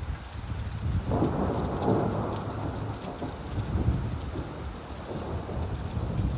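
Steady rainfall with a low rumble of thunder that builds about a second in and rolls on through the rest.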